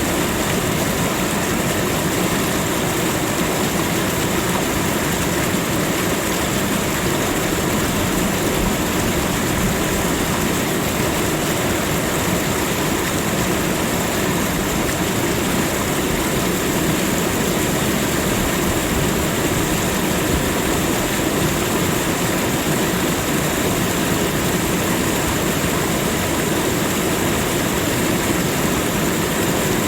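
Steady, unbroken rushing of running water, with no pauses or changes in level.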